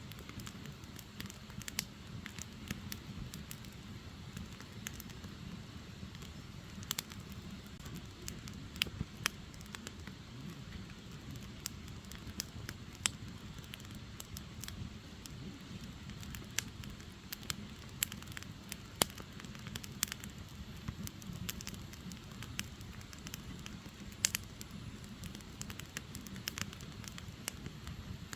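Firewood burning, with irregular sharp crackles and pops over a low steady rumble of the flames.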